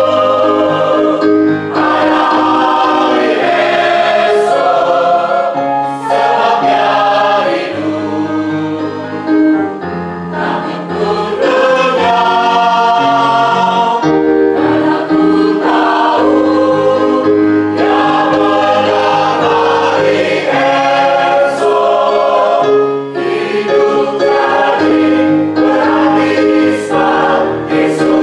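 Church choir singing a hymn in several parts, with chords held and changing together.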